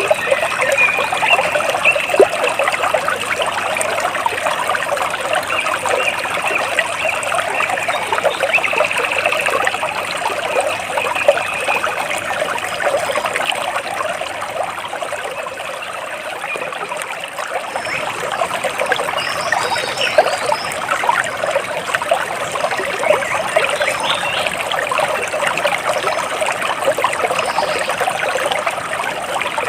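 Water splashing and trickling steadily over rocks, a dense bubbling stream sound, with a few faint bird chirps high above it.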